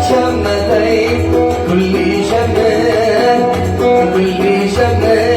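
Oud playing an instrumental passage of a Yemeni Sanaani song, with percussion strokes keeping the beat.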